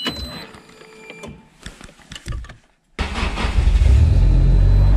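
A few clicks and short high beeps, then about three seconds in the Nissan Silvia S14's engine starts and settles into a loud, steady low rumble.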